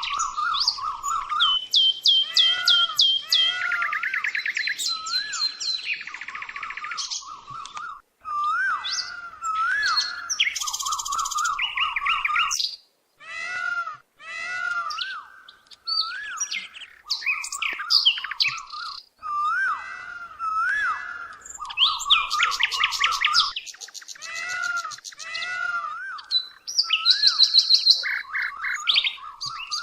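Songbird singing a varied song of short whistled notes and fast trills, in quick phrases separated by brief breaks.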